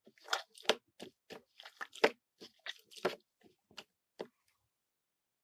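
A large batch of slime being squeezed and stretched by hand, giving a run of irregular crackling, popping squishes that stop near the end.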